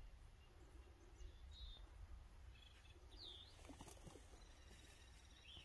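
Near silence: a faint low wind rumble with a few short, high bird chirps.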